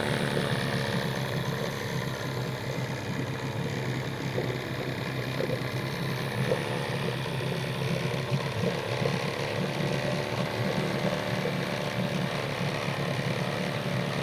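Mercury 9.8 hp two-stroke, two-cylinder outboard motor running steadily.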